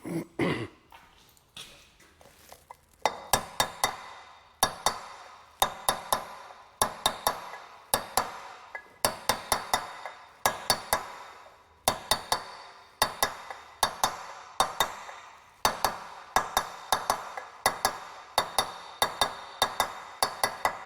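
Hand ratchet wrench clicking in short runs, a cluster of sharp metallic clicks about once a second, as a bolt is worked on a pump being put back together.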